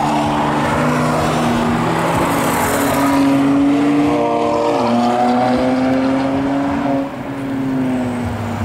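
Several cars driving hard through a corner and passing, among them BMW E36 saloons and a Suzuki Swift hatchback. Their engines rev under load, overlapping. One engine drops in pitch at a gear change about halfway through, and the sound eases off near the end.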